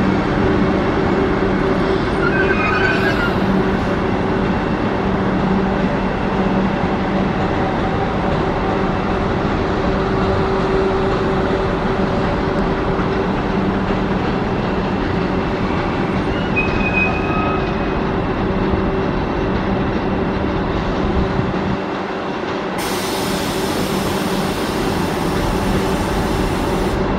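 Vande Bharat Express electric train creeping in along the platform with a steady hum and rolling noise, and brief wheel squeals about two seconds in and again around sixteen seconds. Near the end the rumble drops and a steady hiss comes in.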